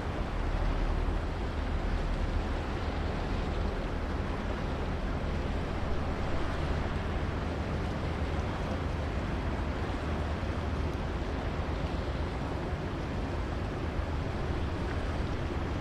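Strong wind buffeting the microphone, an uneven low rumble over a steady even noise.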